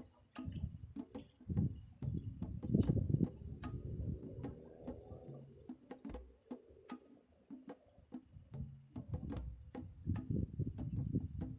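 Insects, crickets or similar, trilling steadily at a high pitch, with irregular sharp clicks and low rustling thumps close by.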